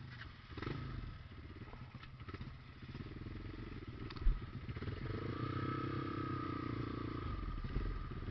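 Trail motorcycle engine running with uneven throttle, picking up into a steadier, louder pull about five seconds in. A single sharp knock a little past the middle.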